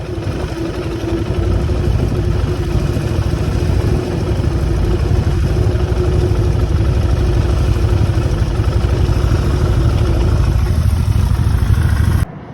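Motorcycle engine running steadily, a constant hum over a low rumble, which stops abruptly near the end.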